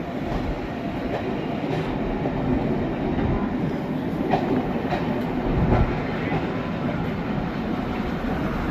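A locomotive-hauled passenger train, with class 47 diesel 47826 and Battle of Britain class steam locomotive 34067 on the ends, moving through a station. It is a steady rumble of wheels on rail with a few scattered clicks.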